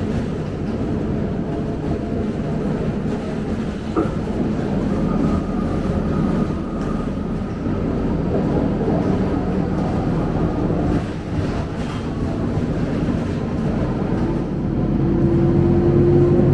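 Scania K270UB single-decker bus running, a steady engine and road rumble, with a steady droning tone coming in near the end.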